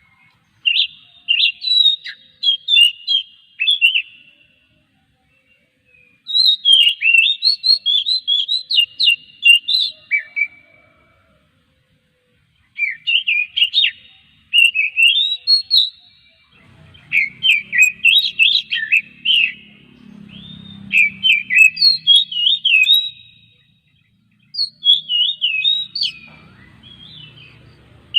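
Oriental magpie-robin (kacer) singing in phrases of rapid, varied whistled and chattering notes, each lasting a few seconds with short pauses between.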